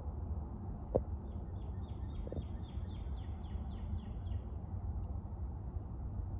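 Outdoor summer ambience: a steady high-pitched insect drone over a low rumble, with a bird calling a quick series of about a dozen short descending notes, roughly three a second. A single sharp click comes about a second in.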